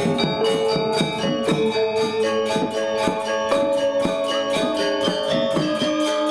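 Balinese gamelan gong ensemble playing a classical lelambatan piece: bronze metallophones struck in rapid figures over long ringing tones, with a bright metallic shimmer at each stroke.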